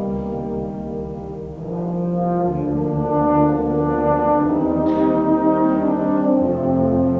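Concert band playing a slow, folk-style piece in held brass chords; the sound thins briefly about one and a half seconds in, then swells back up.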